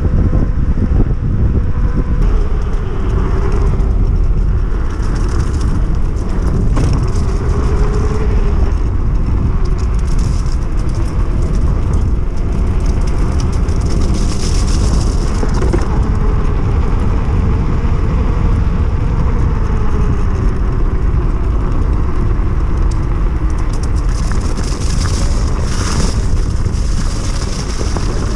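Electric enduro bike being ridden: the 3000 W hub motor, driven by a Fardriver controller, gives a faint whine that rises and falls with speed. It sits over a constant heavy low rumble of wind and tyres.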